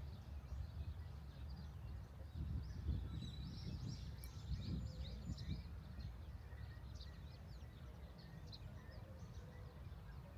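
Small birds chirping in many short, high calls, busiest a few seconds in, over a steady low rumble.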